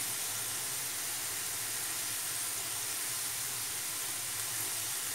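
Diced potatoes frying in oil in a pan, a steady, even sizzle.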